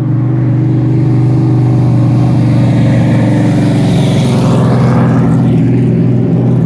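Race car engine running loud and steady at a low, even pitch, with a brighter rushing sound swelling and fading about halfway through.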